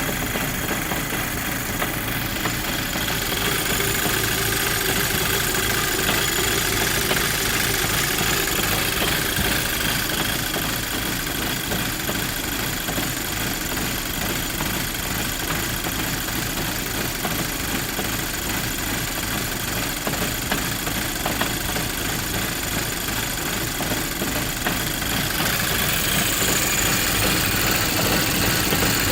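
Volkswagen Golf GTI Mk5's 2.0-litre turbocharged four-cylinder engine idling roughly while cold, an uneven, shaky idle that is the fault being shown.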